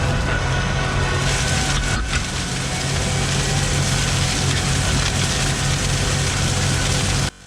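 Tractor engine running steadily, a low hum under a loud rushing noise, with faint music beneath; it all cuts off abruptly just before the end.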